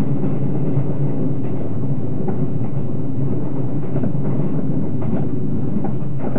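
A JR 381-series electric express train running, heard from inside the car: a steady rumble of wheels on rail with a faint click now and then.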